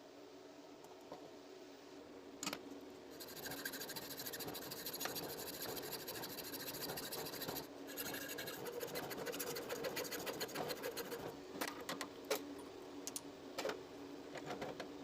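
A small electric motor runs with a steady hum while metal is scraped or cut in a fast, gritty rasp. The rasp comes in two stretches of several seconds, with a short pause between them, and is followed by a few scattered clicks.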